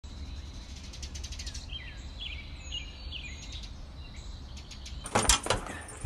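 Small birds chirping in short, repeated calls over steady outdoor background noise, then a quick clatter of sharp knocks about five seconds in.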